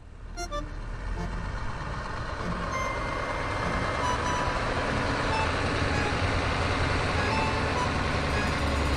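A vehicle engine running, growing louder over the first few seconds, with scattered short beeps and tones over the top.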